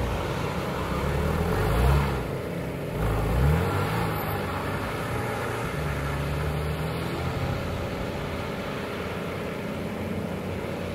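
Porsche 911 Carrera S flat-six engine revving hard as the car slides around a wet skid pad, with two sharp rises in revs about two and three and a half seconds in. The engine then holds a steadier note that grows slightly fainter as the car moves away.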